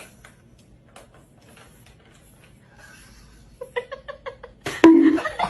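Faint clicks over quiet room noise, then about three and a half seconds in a person starts laughing in rapid bursts, loudest about five seconds in.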